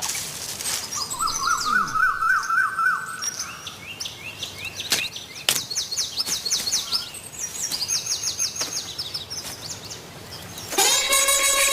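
Several birds singing and chirping: a fast warbling trill early on, then runs of short, high, downward-sliding notes repeated in quick series. A couple of sharp clicks come about five seconds in, and music begins near the end.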